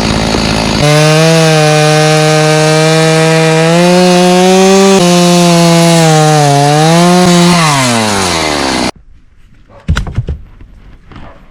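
Stihl 029 chainsaw with a dull chain cutting through dry pine, then running at high revs for several seconds with a brief dip, before the throttle is let off and the engine note falls away. The sound stops abruptly near the end, followed by a single knock.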